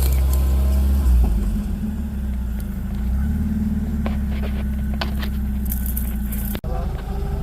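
Off-road 4x4's engine running at low revs while backing up, with a loud low thump about a second in and a few short knocks later. The sound drops out for an instant near the end.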